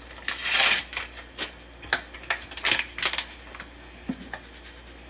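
Taco seasoning being added to a sauce: a brief rustling shake near the start, then several light clicks and taps of the container and kitchenware.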